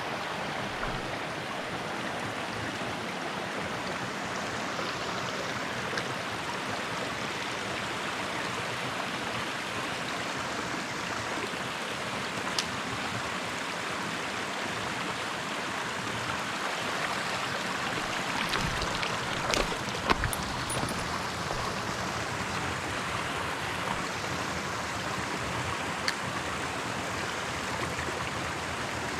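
A mountain stream rushing steadily over rocks. A few sharp knocks cut through it, the loudest a pair about two-thirds of the way in.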